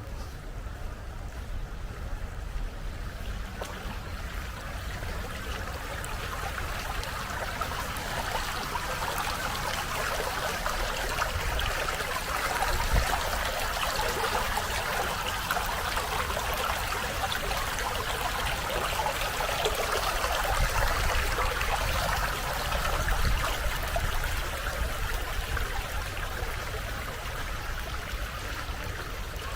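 Running water of a stream, a steady rushing hiss that grows louder toward the middle and eases off near the end, with a low rumble underneath.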